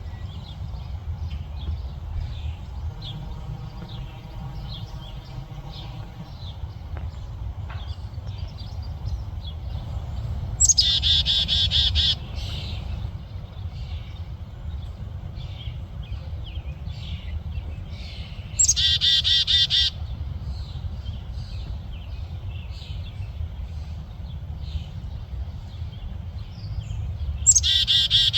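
Small birds chirping repeatedly in short high notes, broken three times by a loud, harsh, buzzy bird call about a second long, over a steady low background rumble.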